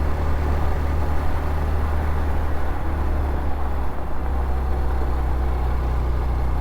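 Honda CT125 motorcycle's single-cylinder engine running steadily under way, a constant low drone that shifts slightly about four seconds in.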